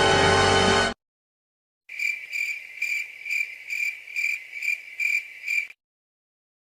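Background music that cuts off abruptly, then after a short silence a high, even chirp repeated just over twice a second for nearly four seconds.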